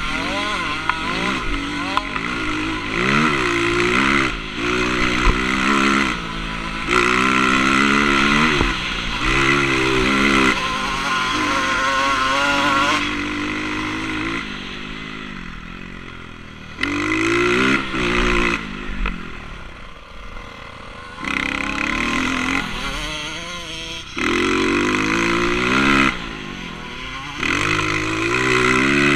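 Motocross dirt bike engine being ridden hard, revving up in repeated rising bursts and dropping back between them as the throttle opens and closes. It eases off twice, about halfway through and again a little later, before climbing again.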